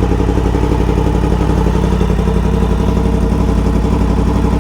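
Yamaha MT-10's crossplane inline-four engine idling steadily through a full titanium Akrapovic race exhaust.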